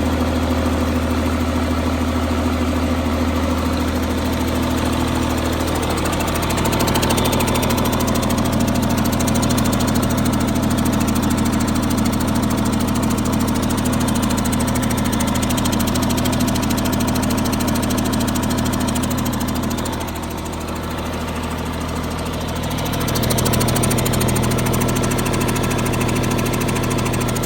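Caterpillar C9 inline-six diesel truck engine running steadily, its sound getting louder about six seconds in, dropping briefly around twenty seconds and rising again soon after.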